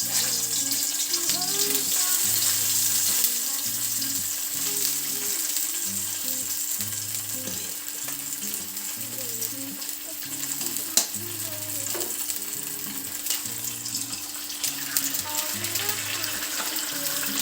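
Food sizzling as it fries in a hot pan, a steady hiss with a few sharp taps about two-thirds of the way through.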